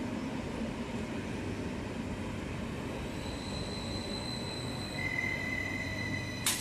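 Vy Stadler FLIRT electric multiple unit rolling past at low speed with a steady low rumble of wheels on rails. A high steady squeal joins about three seconds in and a lower one about two seconds later, typical of wheels squealing on the rails. A brief sharp click comes near the end.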